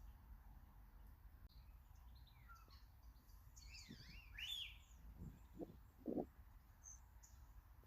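Faint chirps and calls of small garden birds, with a short run of arching notes about four seconds in. A few soft low knocks follow, the loudest about six seconds in.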